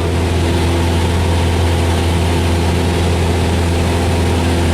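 Cessna's single piston engine and propeller droning steadily in flight, heard from inside the cabin: a constant low hum under an even wash of noise.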